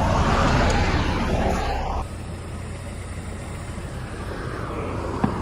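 Mazda Miata's engine and road noise as the car runs, dropping off abruptly about two seconds in to a quieter steady hiss.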